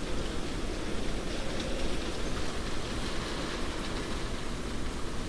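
Hurricane wind and heavy rain: a steady rushing noise that swells and eases a little from moment to moment.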